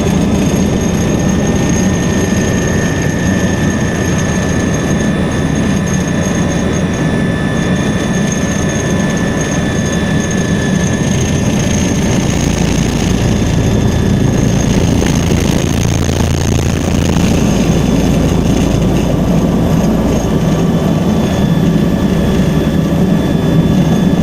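Helicopter in flight: a steady, loud engine and rotor noise with a constant high whine over a low rumble.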